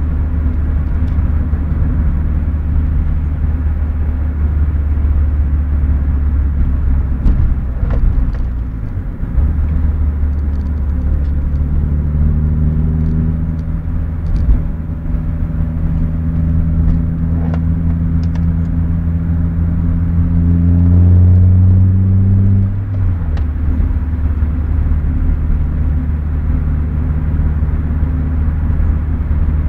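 Renault Clio RS 172's 2.0-litre four-cylinder engine and road rumble heard inside the cabin. The engine note dips around eight seconds in, then climbs steadily in pitch as the car accelerates for about ten seconds. Near the twenty-three-second mark it drops away suddenly as the throttle is lifted.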